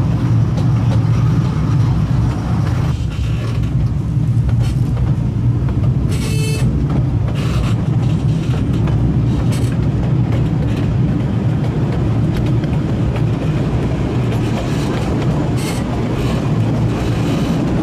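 Kurobe Gorge Railway narrow-gauge trolley train running, a steady low rumble of wheels on rail, with a brief high-pitched squeal about six seconds in.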